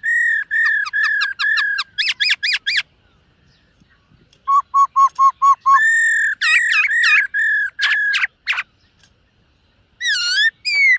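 Black-throated laughingthrush singing loud, clear whistled phrases. A run of repeated whistles ends in quick rising notes; after a pause of about a second and a half comes a fast string of lower notes, then looping whistles, and a final pair of dipping whistles near the end.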